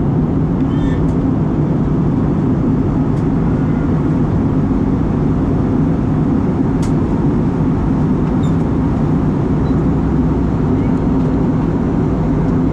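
Steady, loud drone inside the cabin of a turboprop airliner in cruise: engine, propeller and airflow noise, with a few faint ticks.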